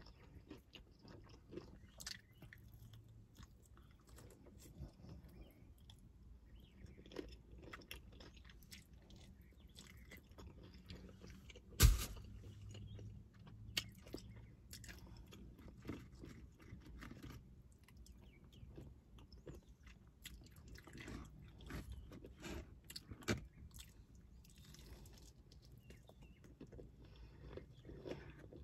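Close-up chewing and biting of crispy fried chicken wings: wet chewing with many small crunches of the breading. About twelve seconds in comes a single much louder sharp sound.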